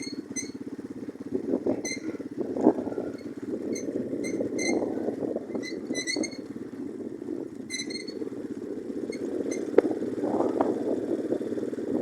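Orion-100 moped engine running under way over a bumpy dirt track, its note rising and falling with the throttle, with rattling and squeaks from the bike and two sharp knocks, one near the start and one near the end.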